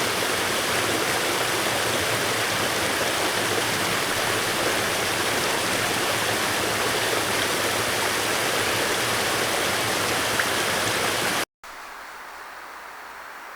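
Steady rush of flowing water, loud and even; it cuts off suddenly near the end, giving way to a much quieter background.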